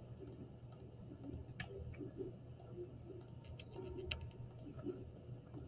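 Faint, irregular clicks of a computer mouse as stair pieces are selected one after another, over a low steady hum.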